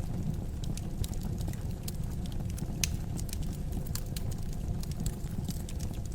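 Wood fire in a fireplace crackling, with irregular sharp pops, one louder about three seconds in, over a steady low rumble of the flames.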